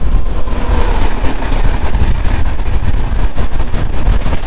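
Passenger train running along the track: a loud, steady rumble of the moving coaches and wheels.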